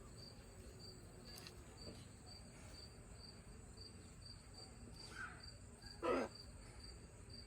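Crickets chirping faintly, a high even pulse about three times a second. About six seconds in comes one short pitched vocal sound, louder than the chirping.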